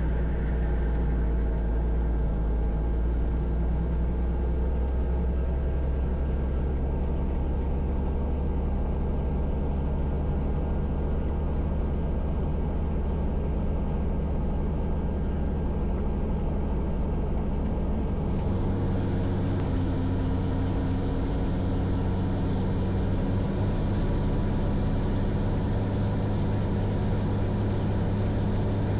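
Robinson R44 helicopter running: the steady drone of its six-cylinder Lycoming piston engine and rotors. About two-thirds of the way through, the low hum shifts up in pitch and a hiss grows louder, a change in power setting.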